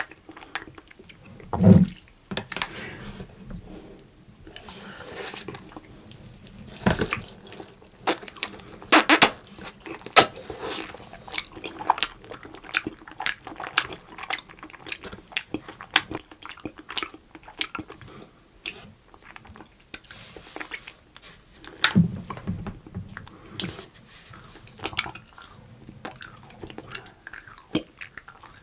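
Close-up eating sounds: wet, sticky chewing with many small clicks and smacks from soft, gooey food, with a few louder bites.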